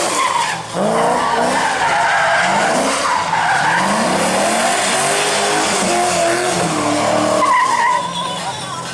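Drift car's engine revving hard up and down, with tyres screeching as the car slides. The sound quietens near the end.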